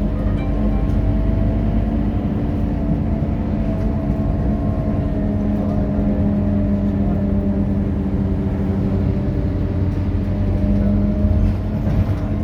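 Scania K230UB city bus's five-cylinder diesel engine running steadily under way, a constant hum with a whine that drifts gently up and down in pitch.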